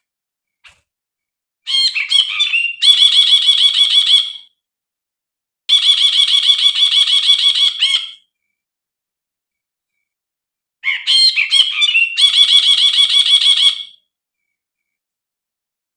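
Brinji bulbul singing in three bouts of a few seconds each, every bout a fast run of repeated chattering notes, separated by short silences.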